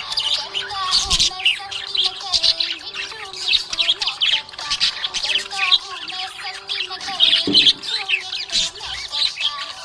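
Budgerigars chirping and warbling continuously, a dense stream of short high chirps.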